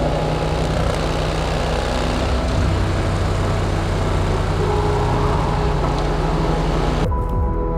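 Motorcycle engine running under way, a steady rush of engine and wind noise that cuts off suddenly about seven seconds in.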